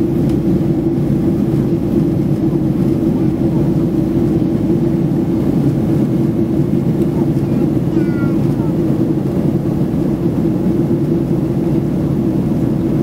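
Steady engine and airflow noise of a jet airliner in flight, heard inside the passenger cabin, with a constant low hum.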